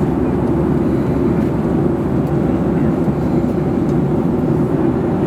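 Steady cabin noise of an airliner in flight: an even, low rush of engine and airflow noise that does not change.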